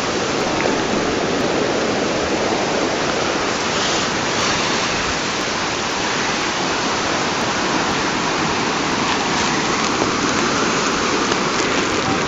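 Swollen river in flood, its fast water rushing steadily, the river running about 10 feet above normal.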